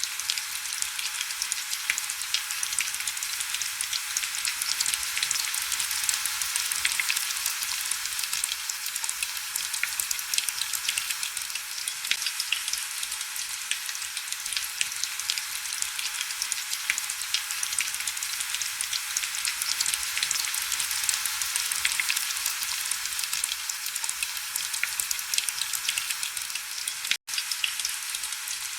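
Heavy rain: a dense, steady hiss of countless fine drop ticks, with almost no low rumble. The sound cuts out for an instant near the end.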